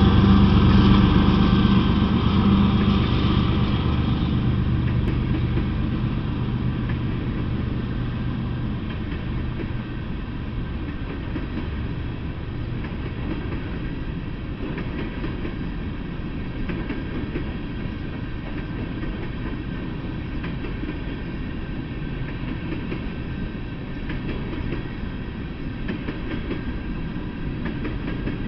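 Freight train passing close by. The diesel locomotives' engines drone for the first few seconds and fade, then a long string of open-top freight cars rumbles and rattles along the rails with faint wheel clicks.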